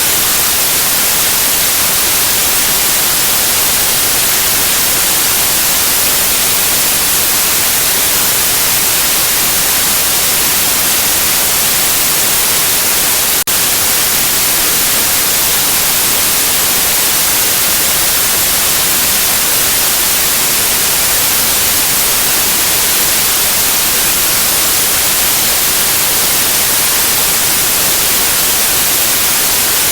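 Steady white noise: an even, unbroken hiss, brightest in the high end, with one faint click about halfway through.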